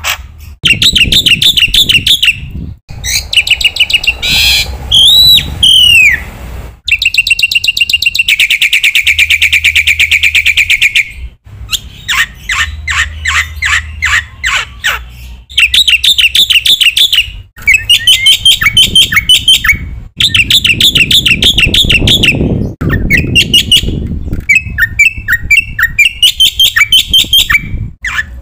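Black-winged myna (jalak putih) singing loudly and continuously in a varied song: phrases of rapid repeated chattering notes and trills, a few arching whistled notes, and one long fast trill about a third of the way in, with brief pauses between phrases.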